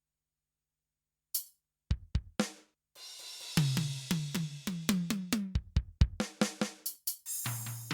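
Kurzweil K2000 synthesizer drum program played from the keyboard, raw with no effects. After a short silence come a few single hits, then from about halfway in a quick run of pitched drum hits, roughly four a second, over a cymbal wash.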